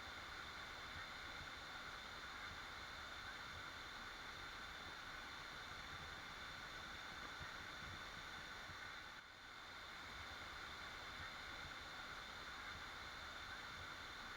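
Faint, steady rushing of a waterfall, dipping briefly about nine seconds in.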